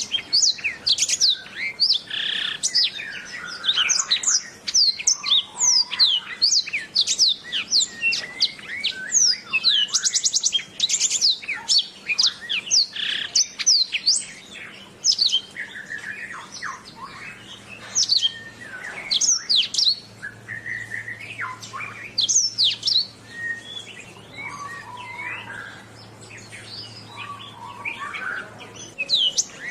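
Domestic canary singing: a fast, continuous run of sweeping chirps and rattling trills, thinning out and softer past the middle.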